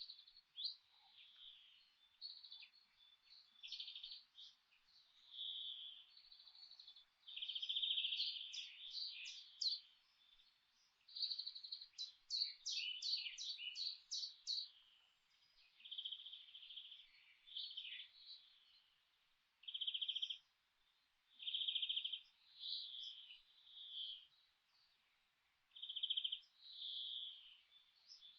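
Songbirds singing: short chirping phrases repeated every second or two, with a quick run of sharp, high notes about halfway through.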